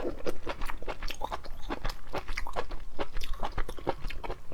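Hard crab shell cracking and crunching close to the microphone as a large crab is broken apart by hand and eaten, a quick irregular run of sharp cracks.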